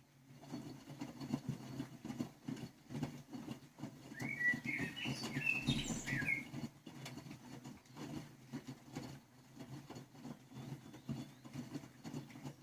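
Miele Novotronic W985 washing machine running: a steady low hum with rapid light clicking and rattling that starts and stops abruptly, with a brief squeaky, wavering whistle about four to six seconds in.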